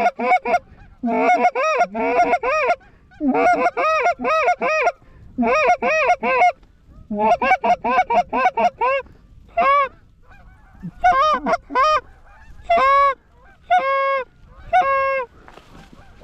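Canada goose honking: rapid runs of short, loud honks and clucks in groups about every second and a half, ending in a few longer, steadier honks.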